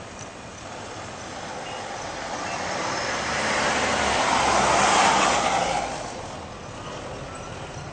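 A vehicle passing close by: a noise that swells to a peak about five seconds in, then fades quickly.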